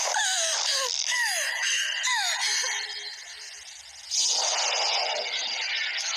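Animated film soundtrack: a high wailing voice that falls and rises several times over a hiss, then a sudden loud rushing noise about four seconds in.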